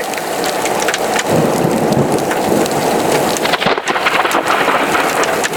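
Heavy thunderstorm rain pelting down, a dense steady hiss with many sharp individual hits.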